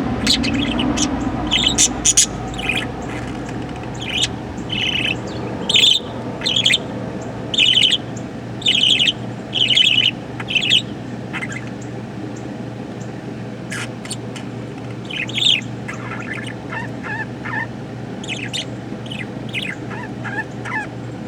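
Budgerigar chirping: a run of sharp, high chirps about once a second, then softer, quicker warbling chatter in the later part.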